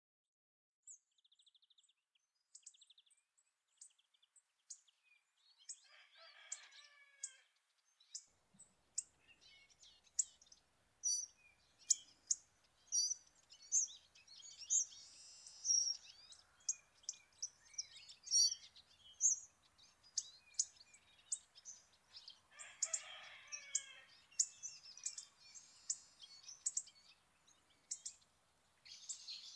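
Small birds calling: a long run of short, sharp, high-pitched ticks, the kind of call hawfinches give while perched, with two longer, lower, warbling phrases about 6 s and 23 s in.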